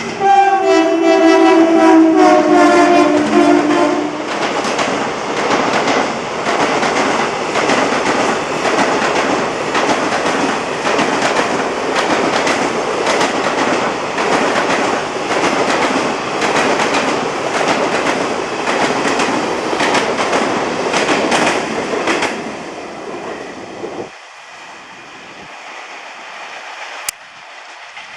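Twin-tone horn of a WCAM-3 electric locomotive, two notes sounding together for about four seconds, with the pitch sliding down as it passes. Then passenger coaches run past with a steady clickety-clack of wheels over rail joints, which fades after about twenty seconds as the last coach goes by.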